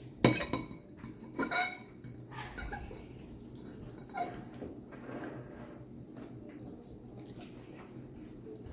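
Eating utensil clinking against a bowl of noodles: two sharp clinks in the first two seconds, then a few fainter knocks and handling.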